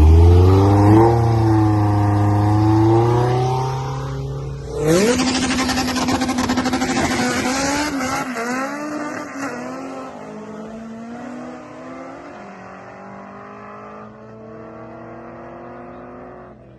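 Drag-racing car's engine held at revs on the start line, its pitch slowly rising. About five seconds in, a sudden loud burst as the car launches, then the engine note fades steadily as the car accelerates away down the track.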